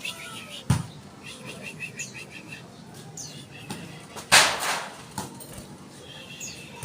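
Birds calling with short downward whistles and a quick run of repeated chirps, with a brief loud flutter of wings a little past four seconds in and a sharp click near the start.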